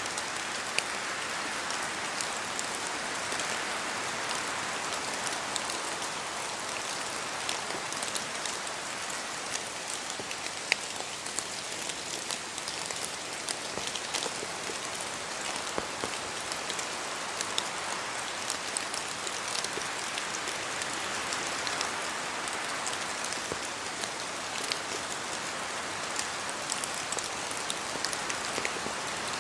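Steady rain falling in a forest, a dense hiss with many separate drops tapping close by. A few louder drops stand out, the sharpest about eleven seconds in.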